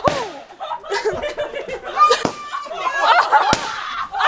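Three sharp firework bangs, one at the start, one about two seconds in and one near three and a half seconds in, mixed with excited voices and laughter.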